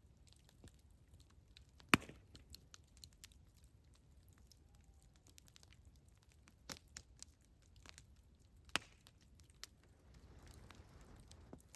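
Campfire crackling: quiet, scattered clicks and snaps of burning wood, with a sharp pop about two seconds in and another near nine seconds.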